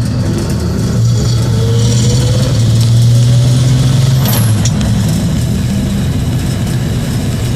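Engine of a 1966 Chevrolet C20 pickup running under way, its note rising for a couple of seconds and then easing off about four seconds in before settling steady.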